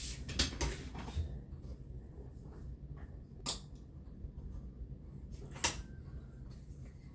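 Knife blade stropped: a quick cluster of short swishing strokes in the first second, then single strokes about three and a half and almost six seconds in, as the edge is finished and honed.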